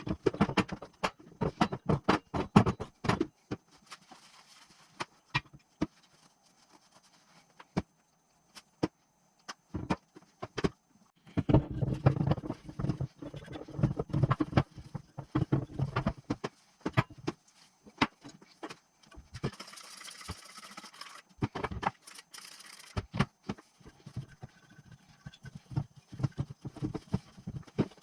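Metal engine parts and hand tools clinking, clicking and knocking during engine assembly, in bursts broken by abrupt silent cuts. Two short hisses come about two-thirds of the way through.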